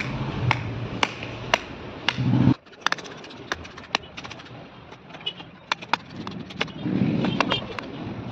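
Hammer tapping steadily on wood, about two strikes a second. A couple of seconds in it cuts off abruptly, giving way to quieter, irregular tool clicks and taps.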